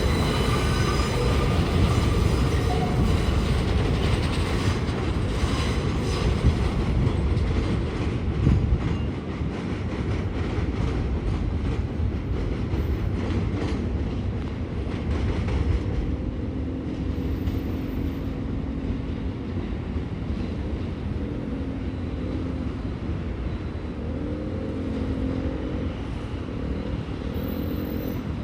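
R62 subway train running past, wheels clacking over the rail joints. The noise eases off a little past halfway as the train draws away, and a steady low hum carries on through the last several seconds.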